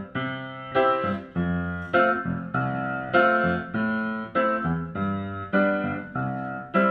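Instrumental song intro on a piano-like keyboard: chords struck about every 0.6 seconds, each one fading before the next.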